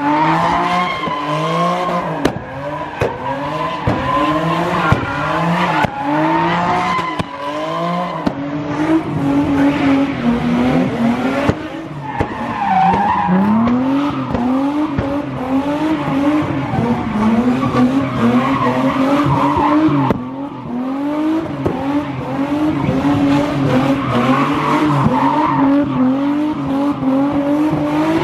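Car engine revved hard in quick repeated bursts, each a short rising sweep, then held at high revs with the pitch swinging up and down while the tires squeal, as a car does when spinning donuts.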